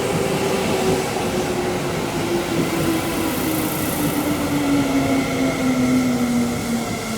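Seibu 9000 series electric train with Hitachi IGBT-VVVF inverter drive, its inverter and traction motor whine falling steadily in pitch over running noise as the train slows.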